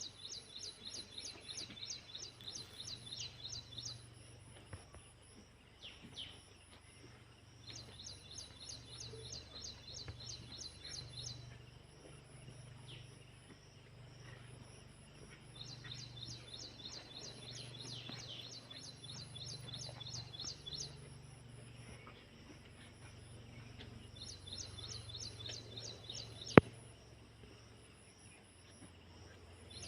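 A bird singing phrases of rapid, repeated down-slurred notes, about eight a second, each phrase lasting three to five seconds and coming four times with pauses between. A faint high insect-like trill and a low steady hum run underneath. A single sharp click near the end is the loudest sound.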